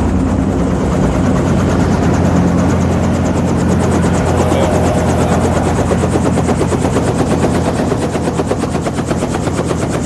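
Helicopter engine and rotor running steadily, with a fast, regular beat from the rotor blades.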